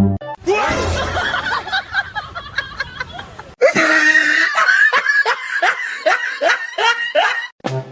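People laughing in two stretches: the first is mixed and noisy, and after a sudden cut comes a rapid string of short rising "ha" sounds, about three a second.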